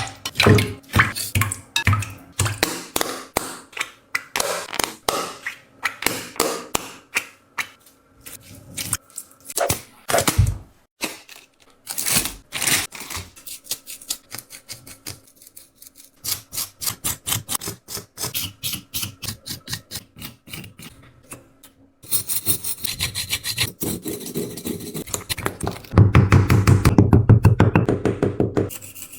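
A run of taps, clicks and scrapes from objects being handled, some in quick rhythmic bursts. Near the end it changes to loud, rapid rubbing strokes.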